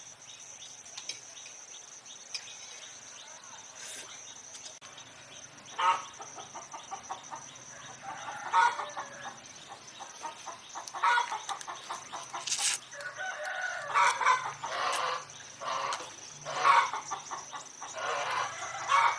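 Chickens clucking and calling in short bursts every second or two, over a steady high-pitched insect drone. A single sharp click comes about two-thirds of the way through.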